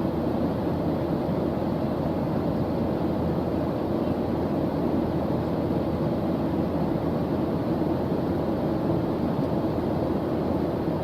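Steady white-noise track: an even, unchanging deep hiss, weighted toward the low and middle pitches, with no breaks or separate sounds.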